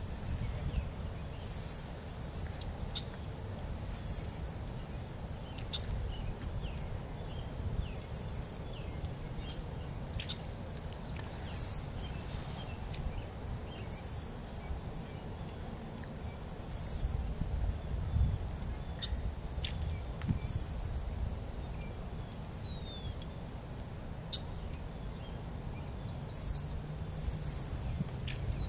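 A bird calling over and over: short high chirps that sweep down and settle briefly, about one every two to three seconds, with a longer pause near the end, over a low rumble of wind on the microphone.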